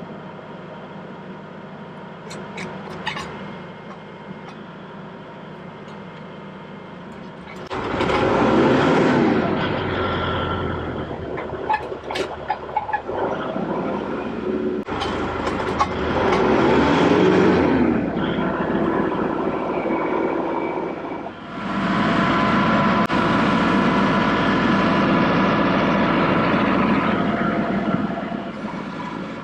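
Tractor engine running at a low throttle, with a few light clicks early on. It is brought up to a much louder, higher speed three times, each for a few seconds, then settles back.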